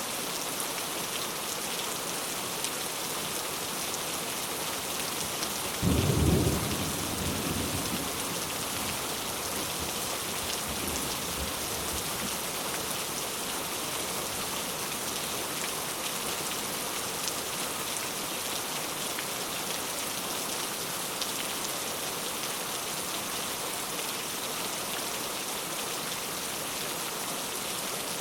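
Rain falling in a steady hiss, with a single low clap of thunder about six seconds in that rumbles away over a couple of seconds.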